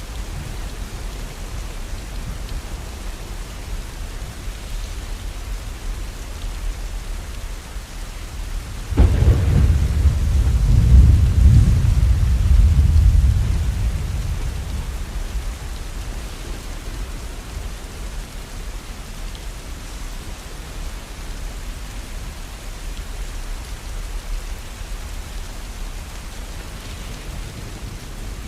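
Steady rain falling, with a clap of thunder about nine seconds in that rumbles deeply for several seconds and then fades away.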